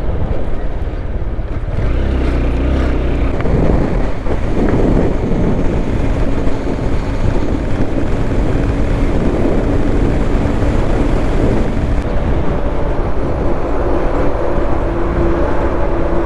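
Honda Hornet motorcycle running at highway cruising speed, its engine hum mixed with steady wind rushing over the microphone.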